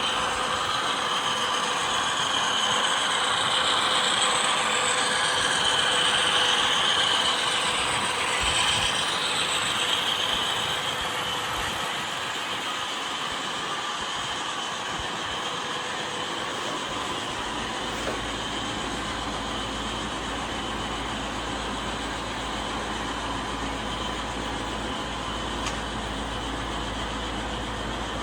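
Model train lash-up of twelve locomotives pulling coal cars: motors and gearboxes whirring with a high steady whine, wheels rattling over the track. Louder for the first ten seconds or so, then running steadier and a little quieter.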